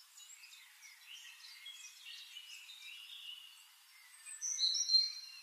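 Birds chirping over a faint steady hiss, with a louder run of high whistled notes near the end.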